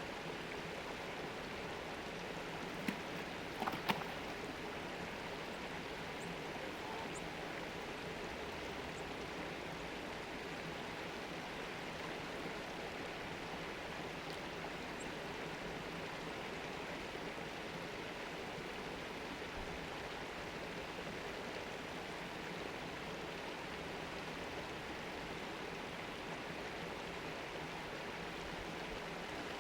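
Steady flow of running stream water, with a few faint knocks about three to four seconds in.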